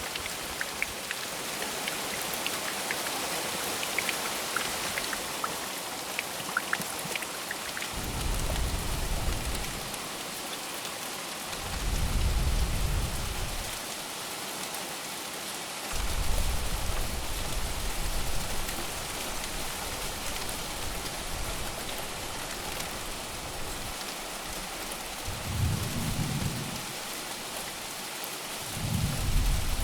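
Steady rain hissing, with several low rolls of thunder rumbling up and fading, the loudest about twelve and sixteen seconds in.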